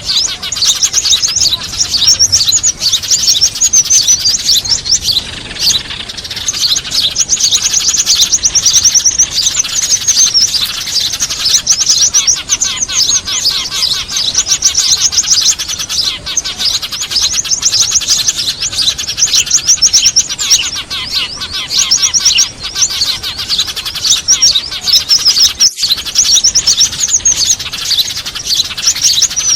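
Dense, non-stop chirping of a noisy crowd of sparrows and other small birds: a bird-trapping lure call track. There is a split-second break near the end.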